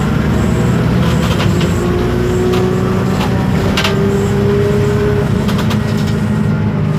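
Inside a 2012 Isobus City 1200 city bus under way: its MAN D0836 LOH six-cylinder diesel runs steadily while the ZF Ecomat automatic gearbox and differential give a faint whine. Interior parts rattle, with scattered sharp clicks and knocks.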